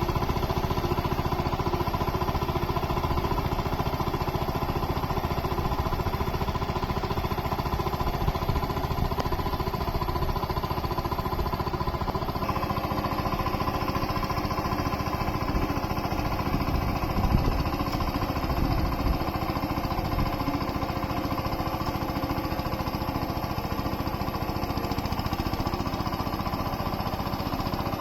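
Tractor's diesel engine running steadily under load, a fast, even clatter of firing pulses, while it works a flooded paddy field for puddling. Its note shifts slightly about twelve seconds in.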